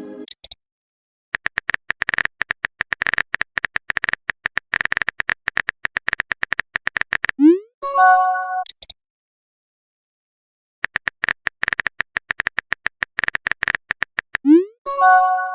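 Rapid typing clicks of a chat-style sound effect. Each run ends in a short rising pop and a brief message chime, once about halfway through and again near the end.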